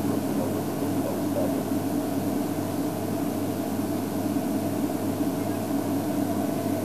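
Game-drive vehicle's engine running steadily, a constant low hum with no change in pitch.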